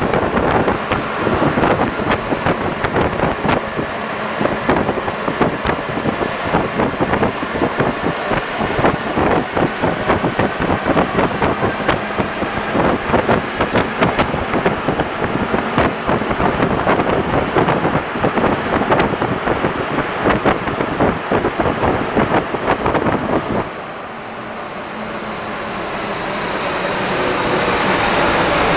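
Santiago Metro NS-74 rubber-tyred metro train running, a loud steady rush of running noise with constant rattling and knocking. The sound drops suddenly about 24 seconds in, then builds back up near the end.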